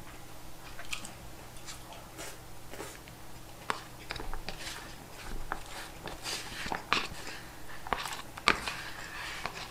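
Close-up chewing and eating sounds of a person eating a pork cutlet rice bowl, with scattered clicks of wooden chopsticks scraping and tapping in a paper bowl.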